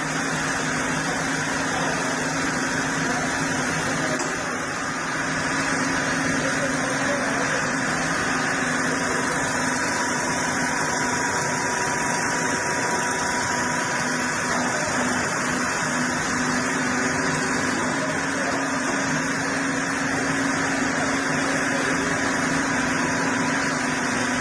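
Sawmill machinery running steadily: a continuous mechanical hum with a held tone that grows a little stronger midway.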